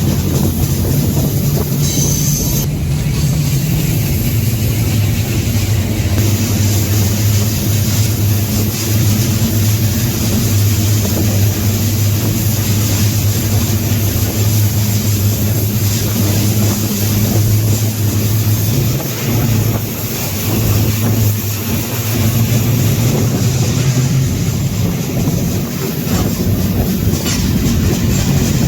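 Freight train rolling along, heard from aboard a car: a steady loud rumble of steel wheels on rail with a low hum underneath.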